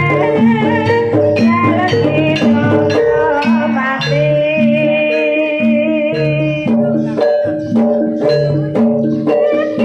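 Javanese traditional music played live: repeated pitched notes cycling in a steady rhythm over sharp percussion strokes, with a wavering held melody line from about four to six and a half seconds in.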